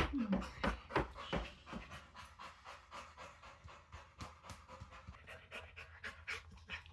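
A bully-breed dog panting in quick, even breaths.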